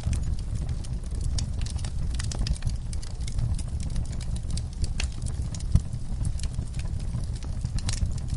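Wood fire burning in a fireplace: a steady low rumble of flames with irregular crackles and pops of burning logs.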